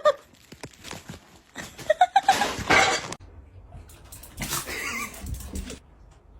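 An animal's sounds: scattered clicks, a brief pitched call about two seconds in, and rough, breathy noises after it.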